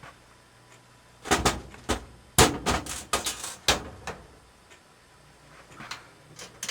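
Dryer parts being knocked and slid into place by hand: a burst of sharp clattering knocks, with some scraping, for a couple of seconds, then a few light ticks near the end.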